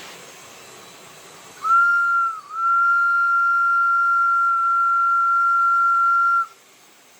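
Steam-locomotive whistle from a Märklin HO model locomotive's sound decoder: one short blast, then one long steady blast that cuts off sharply.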